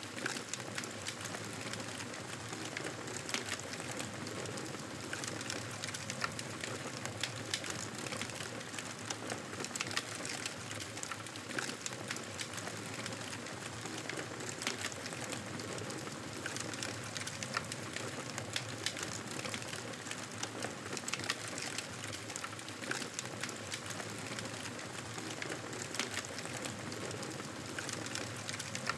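Campfire burning steadily with constant crackling: many small irregular pops and snaps over a soft hiss of flame.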